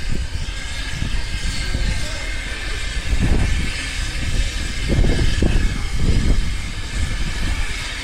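Train running along the track: a steady low rumble, swelling louder a few times.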